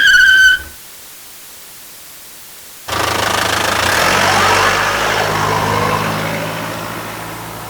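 Truck driving: a steady low engine rumble with road noise that comes in abruptly about three seconds in, swells over a second or two and then slowly fades. A short high tone sounds at the very start.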